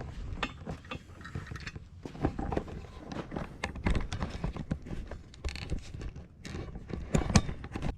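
Footsteps and handling noise: an irregular run of short clicks and knocks, with one louder knock near the end.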